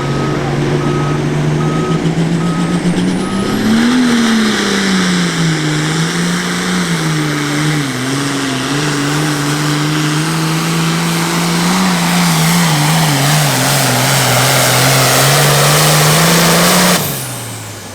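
Super farm class pulling tractor's turbocharged diesel engine under full load down the track: it revs up about four seconds in and runs hard with its pitch wavering and a rising hiss, then drops off sharply near the end. During the first few seconds a reversing alarm beeps steadily.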